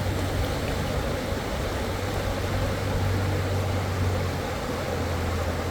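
Fast-flowing river water rushing steadily, with a steady low rumble underneath.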